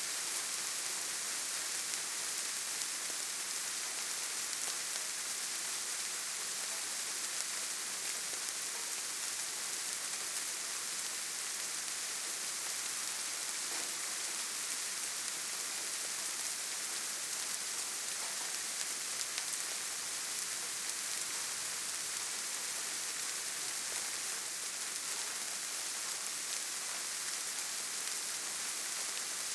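Steady rainfall in a forest, an even hiss of rain with faint scattered drops pattering.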